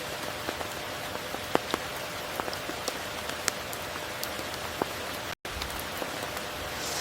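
Steady rain falling, with scattered individual drops standing out as sharp taps. The sound cuts out completely for a split second about five seconds in.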